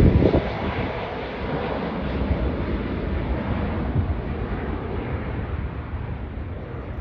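Boeing 777 airliner's jet engines rumbling on approach, loudest in the first moment and then slowly fading as the aircraft moves away.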